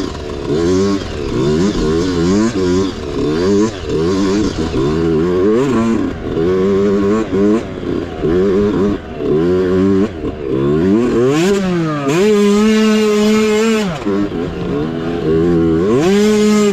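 Mini bike's small engine revving up and falling back again and again as the throttle is worked. About two-thirds of the way through it holds steady at high revs for a couple of seconds, then drops and climbs once more near the end.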